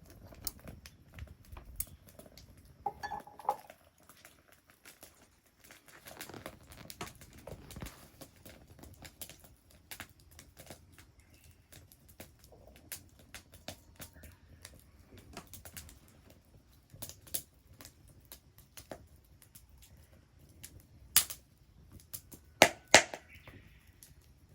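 Wood fire crackling: irregular sharp snaps and pops throughout, with a few louder pops near the end.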